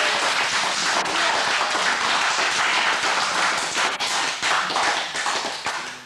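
A group of people applauding: dense, steady hand clapping that dies away near the end.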